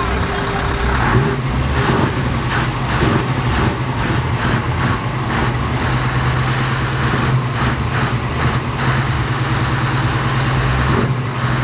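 Scania 580 V8 truck engine running steadily with a constant low hum, and a short hiss of air from the air brakes about halfway through.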